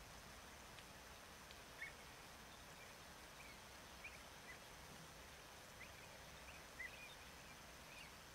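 Near silence with faint, short bird chirps scattered over a steady background hiss, the clearest about two seconds in and again near seven seconds.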